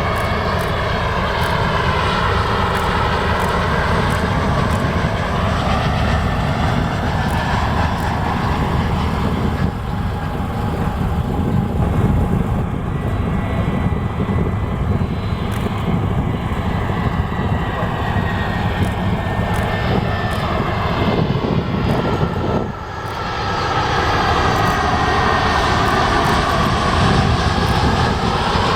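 Jet airliner on approach to land passing low, its engines running with a steady rushing noise and a thin whine that slowly falls in pitch.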